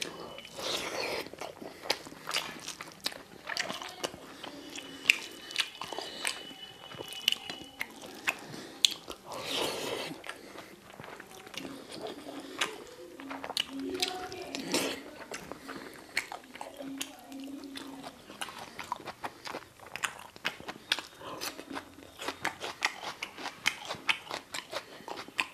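Close-miked chewing and mouth sounds of a person eating jeera rice and chickpea curry by hand, with many small sharp clicks throughout.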